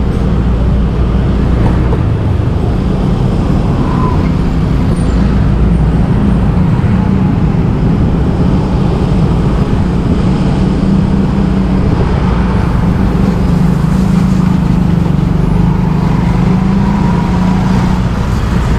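Motorbike engine running steadily while riding, with other street traffic around it.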